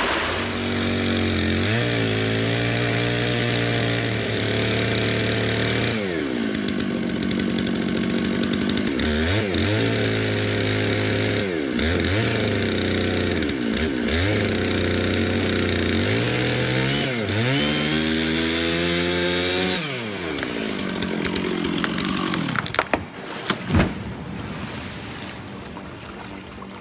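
Chainsaw engine running and being revved up and down again and again, its pitch falling and climbing several times. It then eases to a lower, quieter run, with a few sharp snaps a few seconds before the end.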